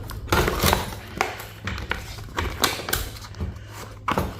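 Irregular clicks, taps and light knocks of hand tools and small metal and circuit-board parts being handled during a teardown, over a faint steady low hum.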